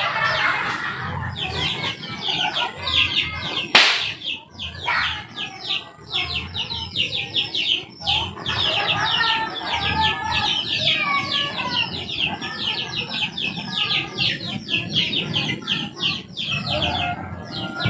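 Birds chirping in a rapid, even run of short high chirps, about five a second, over lower clucking. One sharp knock comes just before 4 seconds in.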